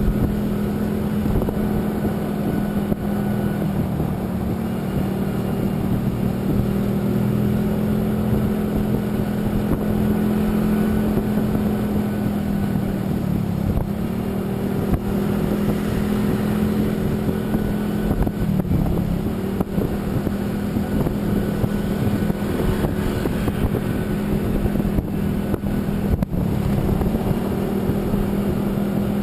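A vehicle engine running at a steady cruising speed under constant road and wind noise; its note dips briefly twice, a little before halfway and again a few seconds later, as it eases off and picks up again.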